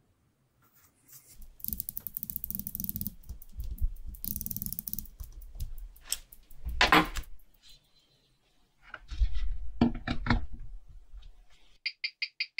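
Small mechanical parts and hand tools being worked on a watch: irregular clicks, rasping scrapes and a couple of louder knocks. A fast, evenly repeating high chirp starts near the end.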